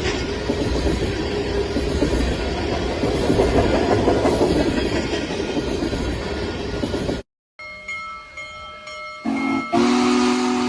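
A train running by with loud rumble and wheel noise, then, after a brief cut, a train sounding a steady chord of several notes that grows louder about ten seconds in.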